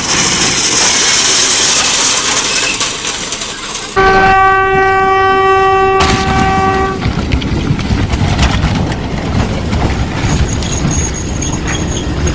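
Loud rumble and rattle of a train passing. A train horn sounds one steady blast for about three seconds, starting suddenly about four seconds in.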